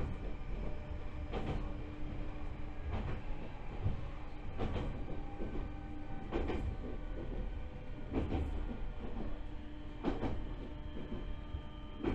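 Joshin Electric Railway 7000 series electric train running, heard from inside the car: wheels clacking over rail joints about every one and a half to two seconds, over a steady rolling and motor hum. The clacks come slightly further apart toward the end.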